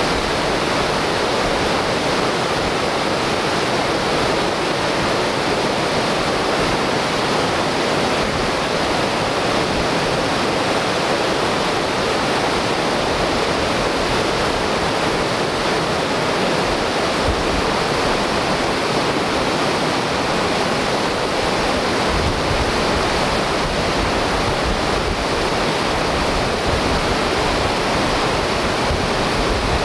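Whitewater rapid rushing loudly and steadily, a continuous roar of churning river water.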